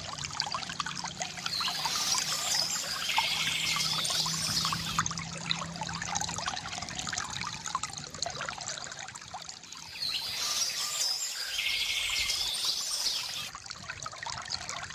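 Water from a bamboo fountain's spout trickling and splashing into a basin, with many small drips. Birds sing over it twice, each time ending in a fast trill.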